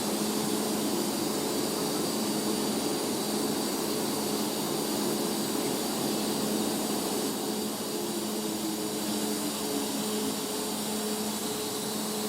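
TIG welding arc on thin-walled stainless steel tube at 55 amps: a steady hiss with a steady low hum, filler wire being fed in by hand.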